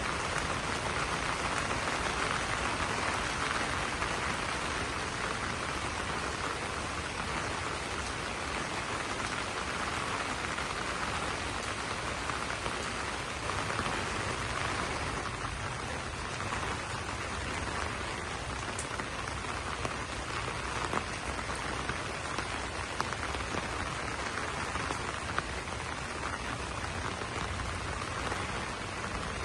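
Steady rain falling on banana leaves, a dense even patter that eases slightly about halfway, with a few louder single drops standing out later on.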